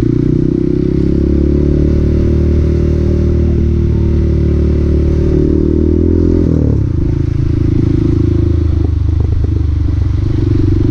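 Honda Grom's 125cc single-cylinder four-stroke engine running under way at a steady note. About two-thirds of the way through the note breaks off abruptly, then carries on lower and rougher.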